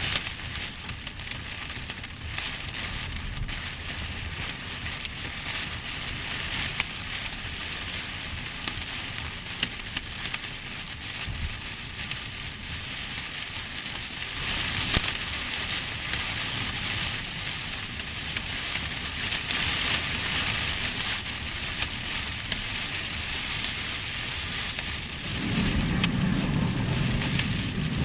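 Heavy rain pouring down in a dense, steady hiss with scattered sharp ticks, growing heavier for a few seconds about halfway through. Near the end a low rumble rises beneath it.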